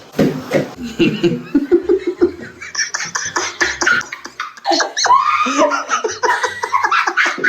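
Hearty human laughter in quick, breathy bursts.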